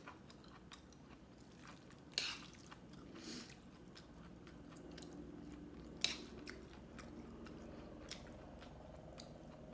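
A person eating close to the microphone: quiet chewing with a few sharp clicks and crunches, the loudest about two seconds in and again about six seconds in.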